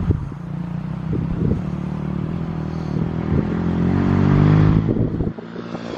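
Engine running with scattered clatter, its pitch and level rising from about three seconds in to a peak near four and a half seconds, then cutting off sharply.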